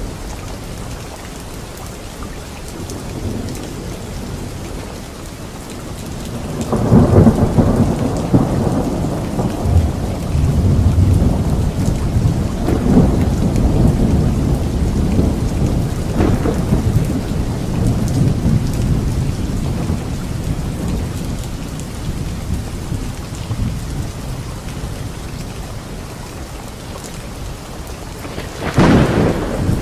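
Thunderstorm: steady rain with a long rolling rumble of thunder that starts about seven seconds in and slowly fades, then a sharp close thunderclap near the end.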